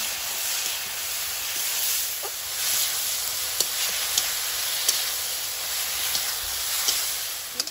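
Onion, ginger, garlic and chilli masala sizzling in hot oil in an iron kadai, a splash of water just added so it fries down without burning. A steady hiss with a few sharp ticks scattered through it.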